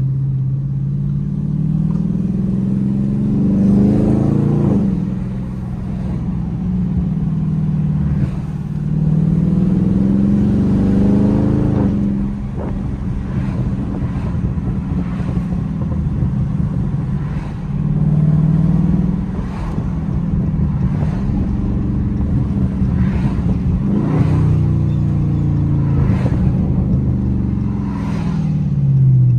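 Dodge Scat Pack's 392 (6.4 L) Hemi V8 with a mid-muffler delete, driving: the exhaust climbs in pitch under throttle and drops back sharply several times, with steady running in between.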